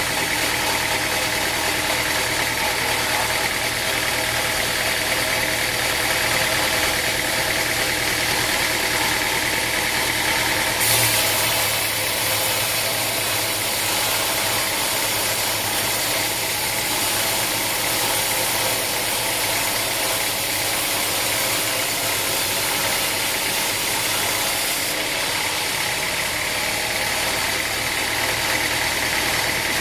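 Engine-driven sawmill machinery running steadily, with a higher hiss from about a third of the way in until near the end.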